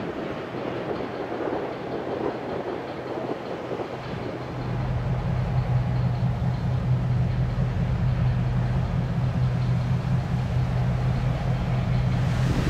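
Diesel locomotive of a freight train running, heard as a steady low engine drone over a rough noisy rumble, louder from about four seconds in.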